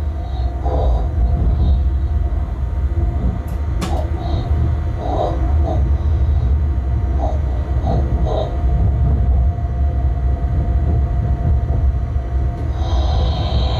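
Steady low rumble inside the cab of a Bombardier TRAXX class 186 electric locomotive running on the line, with a sharp click about four seconds in and a few short, faint higher sounds.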